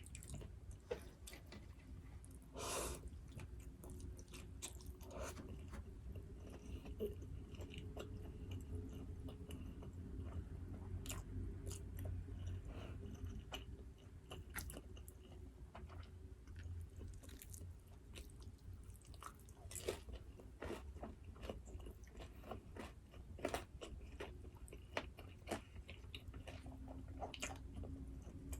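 Close-miked eating: chewing with wet clicks and occasional crunchy bites, from jjajangmyeon and fried dumplings.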